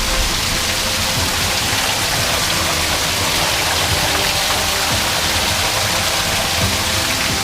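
Pool waterfall pouring over rockwork into the pool: a steady, even splashing hiss of falling water.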